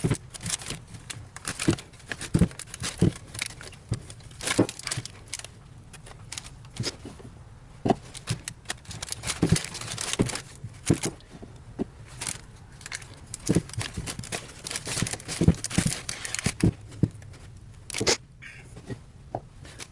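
Hands packing grease into a wheel bearing: irregular clicks, smacks and rustles, often several a second with short pauses between.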